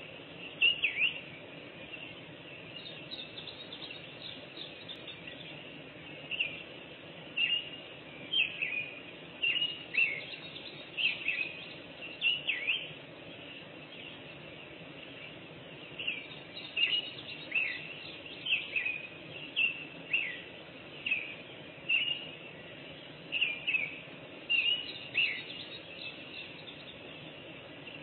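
Wild birds singing, with repeated short chirps and whistled notes, many of them quick downward slurs, coming in clusters with a few quieter seconds about halfway through. A steady faint hiss of outdoor background noise lies underneath.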